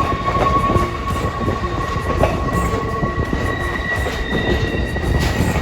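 Passenger train rolling along the track with a steady low rumble, and a steady high whine of two tones above it; the lower tone fades out about four seconds in.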